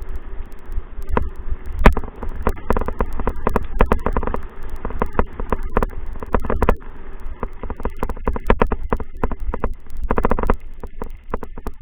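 Rapid, irregular knocks and rattles, several a second and bunched in clusters, over a steady low rumble.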